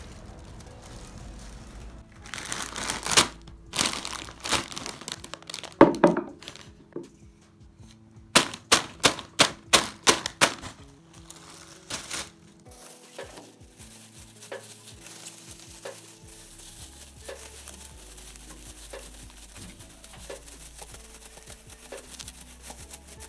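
Soft background music with loud crinkling, rustling noises over it: a few scattered ones early on, then a quick run of about six in a row around the middle.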